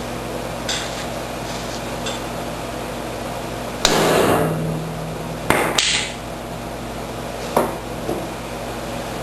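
Hammer blows on steel, a handful of irregular strikes straightening bent parts of a John Deere 1032 snowblower's auger housing. The loudest comes about four seconds in and rings on for about a second, with two quick strikes shortly after and another near the end.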